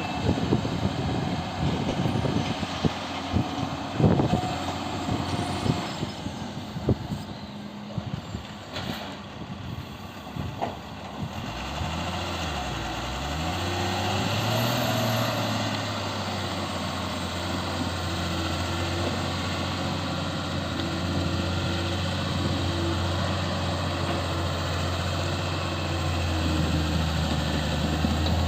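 Heavy construction-machine engine running, with clattering knocks over it for the first ten seconds or so; about twelve seconds in the engine revs up and down, then settles into a steady run.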